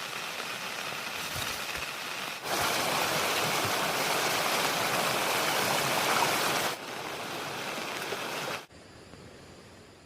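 Rushing water, a steady dense roar heard in several abruptly cut takes, loudest in the middle. Near the end it drops to a faint hiss.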